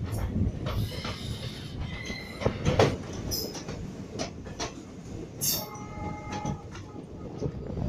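Passenger train coaches running on the rails, heard from a coach doorway: a steady rumble with sharp clicks of the wheels over rail joints, and a brief high wheel squeal on the curve about five and a half seconds in.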